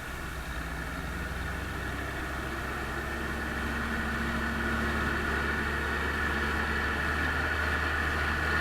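Farm tractor's diesel engine running steadily, slowly growing louder.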